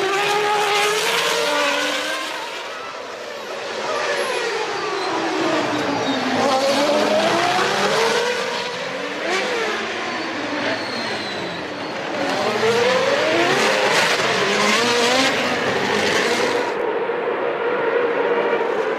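Several early-1990s Formula One cars' racing engines at high revs, their pitch climbing and dropping over and over through gear changes and braking as they pass, more than one engine sounding at once.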